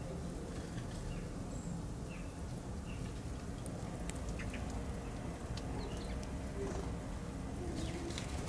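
Wild birds calling outdoors: short high chirps about once a second over a steady low rumble, with a few short low notes and faint clicks later on.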